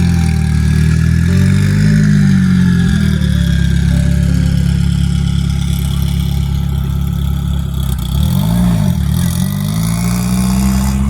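A car engine idling with a deep, steady note. It is blipped about two seconds in, and again more sharply near the end, the pitch rising and then dropping back to idle.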